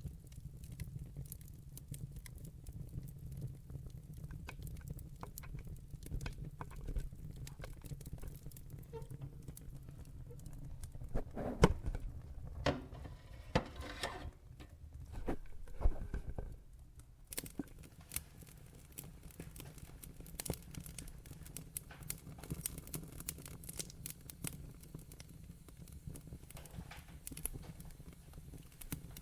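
Wood fire in a fireplace crackling, with scattered sharp pops over a low steady rumble of the flames. A run of louder pops comes near the middle.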